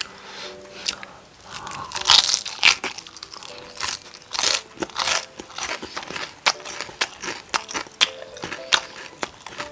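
Close-miked crunching bites and chewing of crispy Korean fried chicken batter: a dense run of sharp crackles, loudest a couple of seconds in, then softer chewing crunches.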